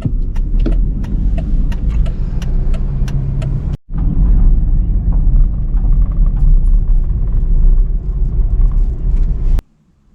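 Car driving on a road, heard from inside the cabin: a steady low road and engine rumble with frequent light rattles and clicks. It drops out for an instant about four seconds in and cuts off sharply near the end.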